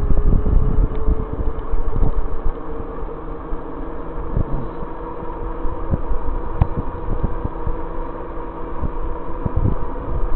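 Wind buffeting the microphone on a moving e-bike, with a steady motor whine and road noise underneath.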